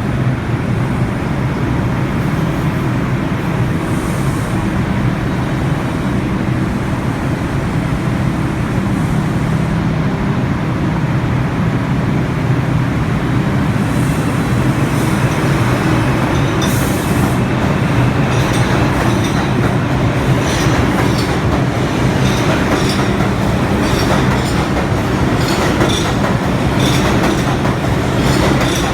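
New York City Subway R142 train departing and running on the track, with a steady loud rumble. From about halfway, a regular clickety-clack of the wheels over rail joints joins it.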